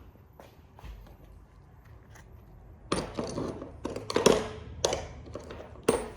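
Hand tools and metal printer parts being handled during disassembly: a few faint clicks, then, about halfway in, a run of sharp knocks and clanks, the loudest with a brief ring, and two more sharp hits near the end.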